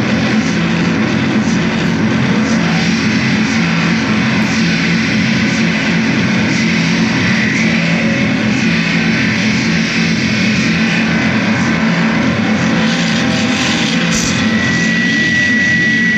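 Loud, dense, steady noise-music drone, a wall of hiss over a low held hum. A thin high tone comes in near the end.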